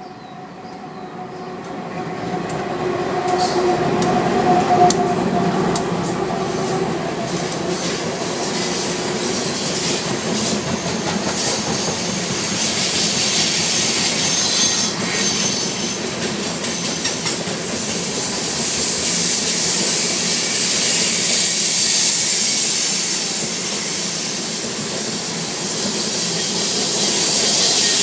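Coal train cars rolling past, getting louder over the first few seconds: steel wheels on the rails with a high squeal and repeated clicking over the rail joints.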